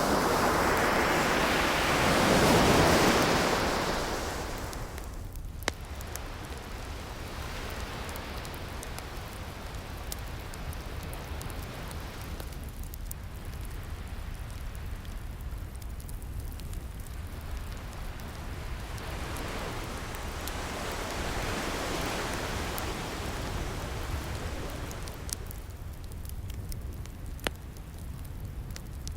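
Ocean waves washing in as slow swells of surf, the biggest at the start and a softer one past the middle, over a steady hiss, with scattered small pops and crackles from a wood fire.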